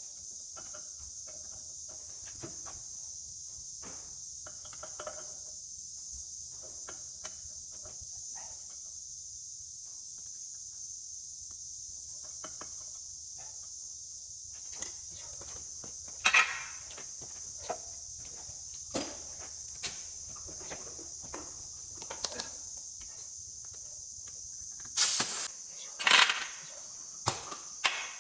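Steady high-pitched chorus of insects, with scattered short knocks and clatters of work on a tractor tyre, most of them in the second half and the loudest a few seconds before the end.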